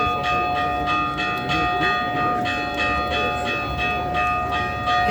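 Church bell rung in quick repeated strokes, about four a second, its tones ringing on between strokes.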